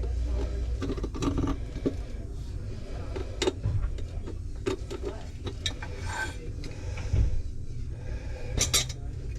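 Scattered clicks, clinks and knocks of small hard parts and tools being handled, over a low rumble that eases about a second in.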